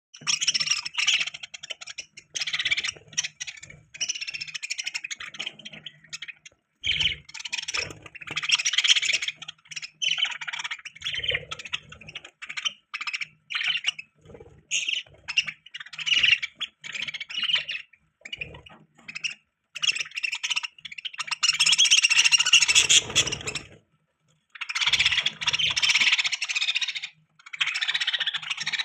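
Budgerigars chirping and chattering in quick, irregular bursts of high twittering, broken by short pauses, with a louder, denser stretch about three quarters of the way in.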